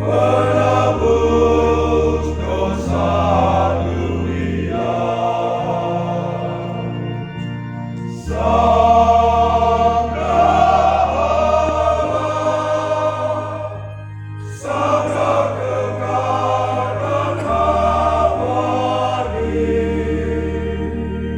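A mixed church choir sings a hymn in phrases over sustained low bass notes, with brief pauses between phrases about a third and two thirds of the way through.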